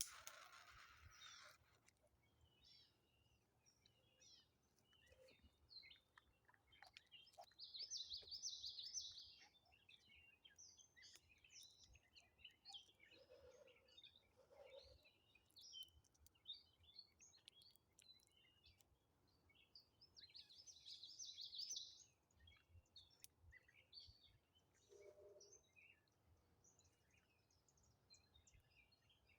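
Faint wild birdsong: many scattered chirps, with two louder dense trills about eight seconds in and again about twenty-one seconds in, and a few lower notes in between. A brief rush of noise at the very start.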